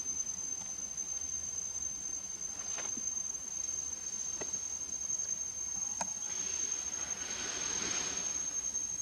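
Steady high-pitched insect call, one unbroken tone, with a few faint clicks and a brief rustling hiss near the end.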